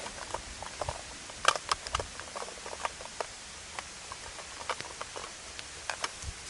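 Wood campfire crackling, with irregular sharp pops and snaps, a cluster of the loudest about one and a half to two seconds in.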